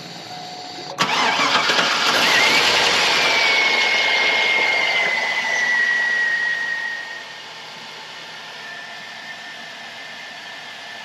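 2001 Chevrolet Silverado engine cold-started about a second in: it catches at once and runs at a fast idle with a whine falling slowly in pitch, then drops to a quieter steady idle about seven seconds in. A slight tick at the start, which the owner takes for a lifter not yet pumped up with oil.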